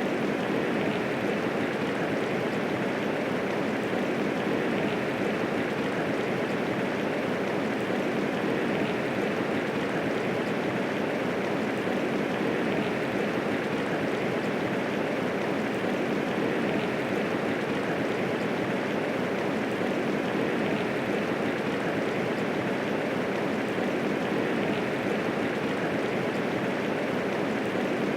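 Steady medium rainfall, an even, unbroken hiss of falling rain with no thunder.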